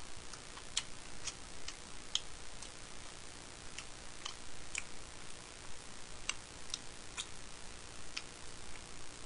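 Soft, uneven clicks over a steady hiss, often in runs of about two a second: mouth and chewing sounds of someone eating.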